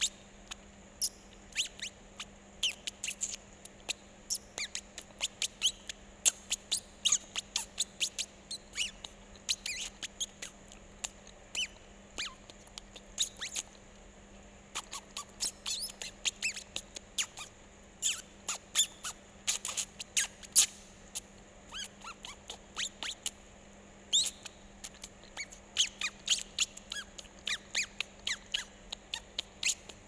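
Small birds chirping: many short, high-pitched squeaky chirps in quick, irregular runs, pausing briefly about a third of the way in and again after about three quarters.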